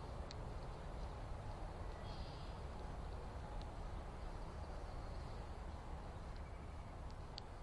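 Faint, high bird chirps over a steady low background rumble, with a few short sharp clicks.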